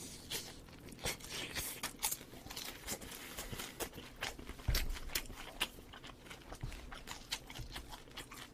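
Close-miked crunchy chewing of corn-crusted baked chicken: a bite, then irregular crisp crunches, with a single low thump about halfway through.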